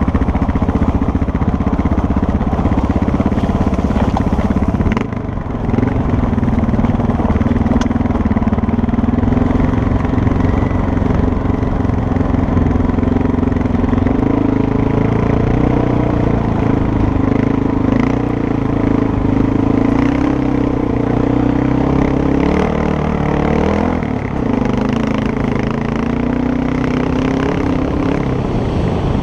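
Motorcycle engine running under way off-road, its pitch rising and falling with the throttle, with a brief dip in the sound about five seconds in.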